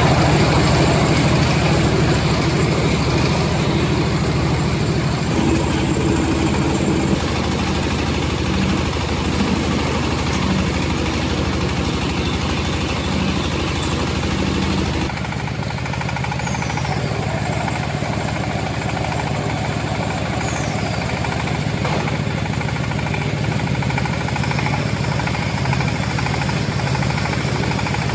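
Silage round baler-wrapper machine running, a steady mechanical hum with a low drone; the sound changes abruptly twice, about a quarter of the way through and again about halfway.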